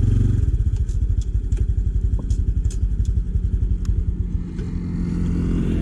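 Motorcycle engine running with a rapid pulsing beat while riding, with scattered light clicks and rattles. About four and a half seconds in the sound dips briefly, then settles into a smoother, slightly louder steady drone.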